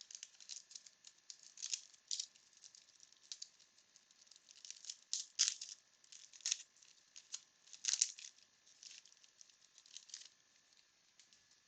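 Wax-paper wrapper of a 1992 Bowman baseball card pack being torn open and handled: faint, scattered crinkles and rips, loudest about five and a half and eight seconds in.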